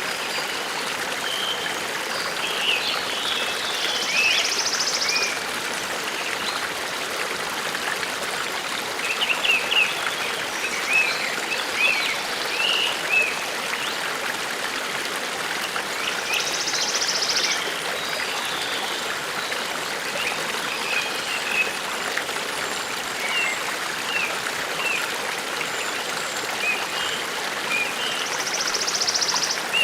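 Forest stream running steadily, with small birds chirping throughout and a short high buzzy trill repeated three times, about twelve seconds apart.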